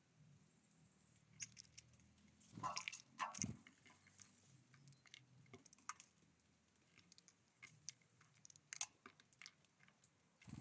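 Small birds pecking at a feeder: scattered taps and crunches of seed being picked and cracked, louder for a moment about three seconds in and again near the end.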